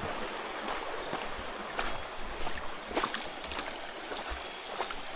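Creek water rushing steadily, with a few sharp splashes and knocks scattered through it from people wading in the stream.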